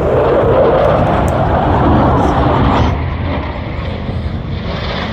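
Aircraft flying past, a loud roar that swells and then drops off sharply about three seconds in, easing to a lower rumble.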